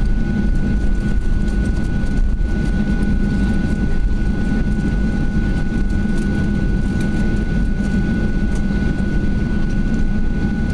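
Cabin noise of a Boeing 737-800 taxiing after landing: its CFM56 engines at idle give a steady low rumble, with two thin steady whining tones over it.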